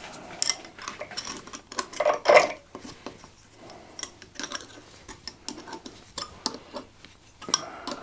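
Irregular light metallic clinks and scrapes of a steel bolt and hand tools being handled as the bolt is threaded in and tightened, with a louder cluster of clinks about two seconds in.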